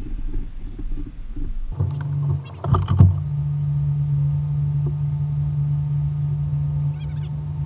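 Jeep engine running, heard from outside the vehicle at the driver's mirror. A low, uneven rumble gives way about two seconds in to a steady engine hum. A loud knock comes around three seconds in.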